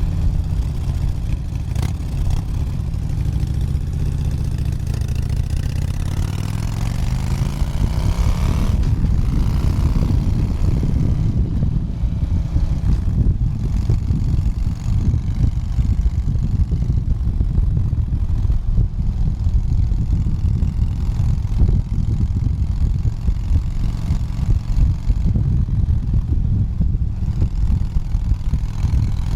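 Motorcycle engine accelerating on a highway, its note rising over the first several seconds, then a steady loud rush of wind and engine at cruising speed.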